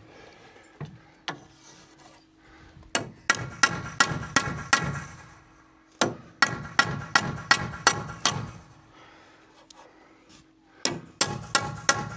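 Hammer blows on hardwood framing timber, in three runs of quick strikes several a second, each blow ringing briefly. A faint steady hum lies underneath.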